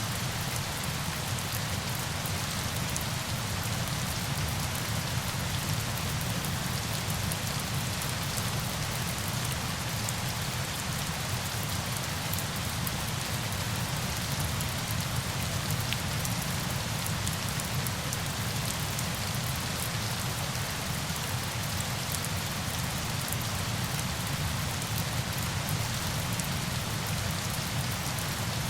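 Steady sound of falling water: an even hiss flecked with fine drop-like ticks over a low rumble, unchanging throughout.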